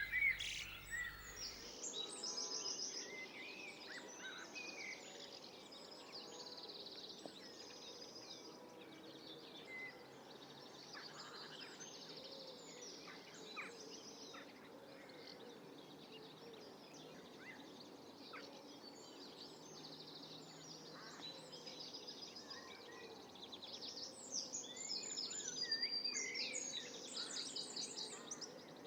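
Several birds singing and calling, short chirps and quick trills overlapping, over a steady background of outdoor ambience.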